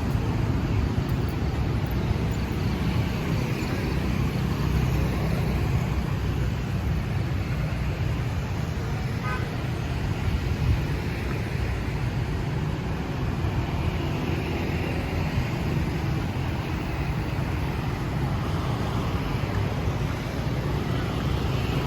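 Steady street traffic noise: the continuous hum of vehicles passing on a city road.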